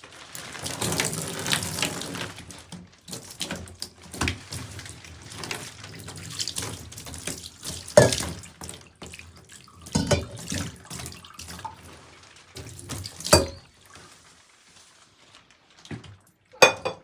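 Water running from a tap into a bathtub, strongest in the first few seconds, with scattered splashes and sharp knocks through the middle. A short clatter of knocks comes near the end.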